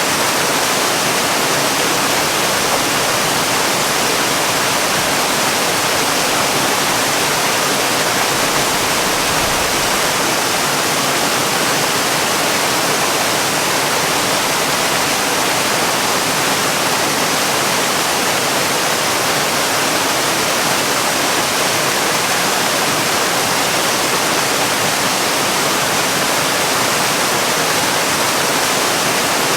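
Waterfall: water falling steadily, an even hiss that stays at one level throughout.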